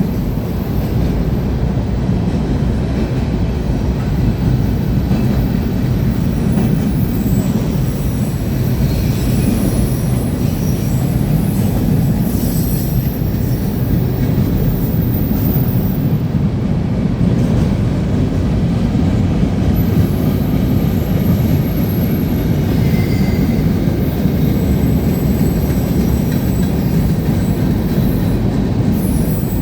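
Freight train cars rolling past with a steady rumble of steel wheels on rail, and faint high wheel squeal now and then.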